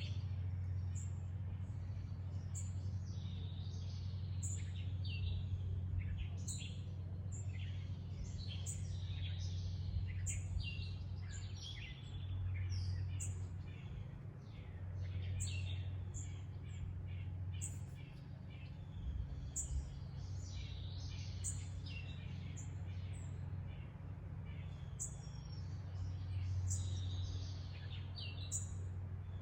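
Several wild birds chirping and singing, many short overlapping calls, over a steady low hum.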